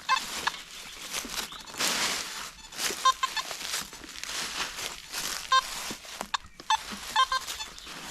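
Metal detector giving short clustered beeps as it is swept over a target, repeating every second or two. Around two seconds in there is a burst of rustling in the leaf litter.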